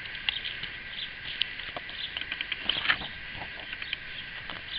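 Birds chirping in the background, many short high calls over a faint steady hiss, with a few light taps.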